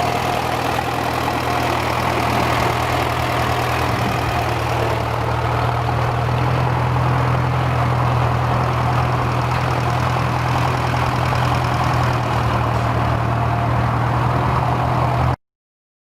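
John Deere 2010 tractor engine idling steadily, until the sound cuts off abruptly near the end.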